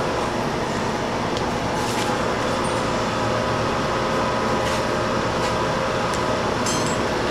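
A machine running steadily, with a few faint clicks and taps over it.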